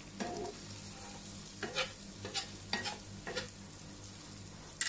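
Egg-wrapped martabak telor frying in a nonstick pan with a steady sizzle, as a slotted spatula and knife scrape and tap against the pan about six times.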